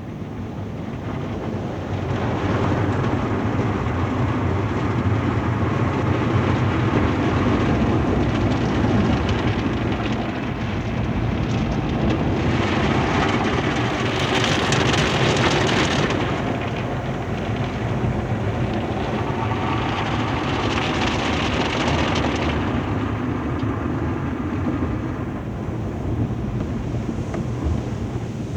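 Automatic tunnel car wash heard from inside a truck's cab: water spraying and wash equipment working over the body, with a steady low hum underneath. Two louder hissing spray passes come about twelve and twenty seconds in.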